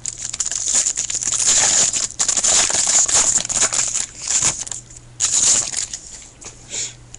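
A trading-card pack's wrapper is torn open and crinkled, with a long crackling rip followed by a shorter burst of crinkling. This is the next pack being opened.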